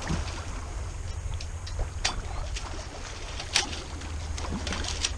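A Dufour 3800 sailing yacht moving under sail in light wind, with no engine running: water moving along the hull over a steady low rumble, and a few sharp ticks scattered through, the clearest about two and three and a half seconds in.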